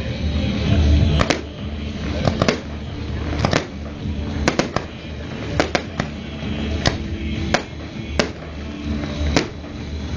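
Fireworks going off in about a dozen sharp bangs, one or two a second, over loud music.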